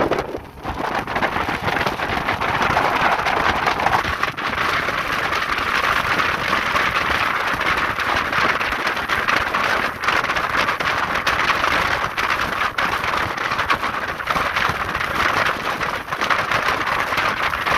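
Speed boat running at speed: a steady rushing noise of wind on the microphone and water, with many small crackles through it.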